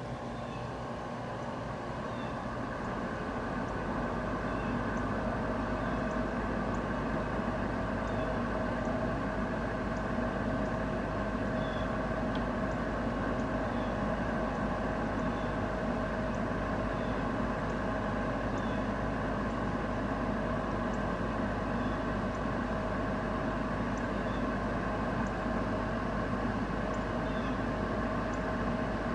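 A steady mechanical hum made up of several held tones over a noisy haze. It builds over the first few seconds, then holds level. Faint short ticks recur every second or two.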